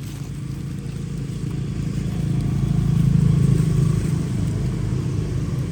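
Motor vehicle engine passing close by, growing louder to a peak about three seconds in, then easing off.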